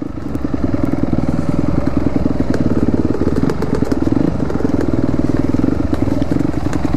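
Dirt bike engine running at a steady pitch while riding, with scattered light clicks over it.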